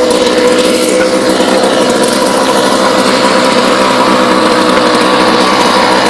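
British Seagull Silver Century two-stroke outboard motor running at a steady speed.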